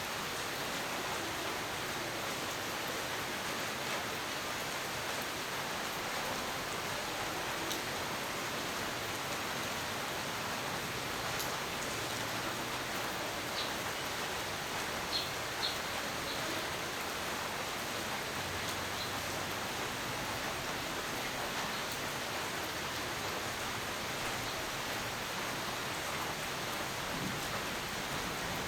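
Steady rain falling, an even hiss with no break, and a few brief sharp ticks a little past halfway.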